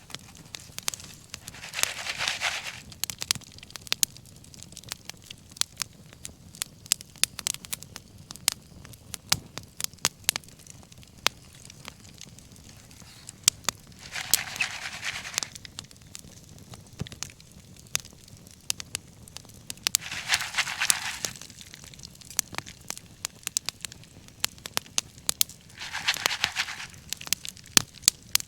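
Wood fire crackling with frequent sharp pops, broken four times by a brief hissing rush about a second and a half long.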